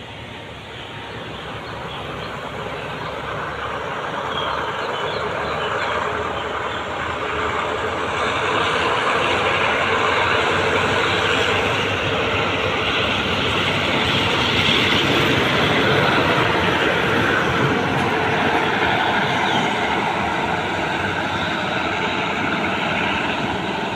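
Passenger coaches of a train rolling along the track, a steady rumble of wheels on rails that grows louder over the first ten seconds or so and then holds.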